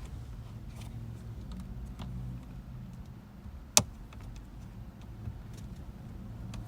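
Faint clicks and taps of hands pressing EL wire into a car's interior trim, with one sharp click a little past halfway, over a steady low rumble.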